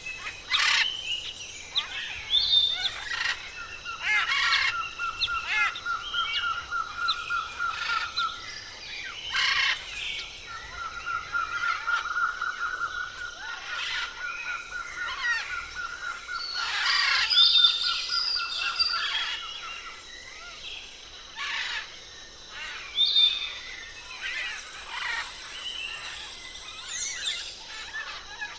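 A chorus of forest birds calling, with long fast trills, sharp repeated notes and a high buzzing trill near the end.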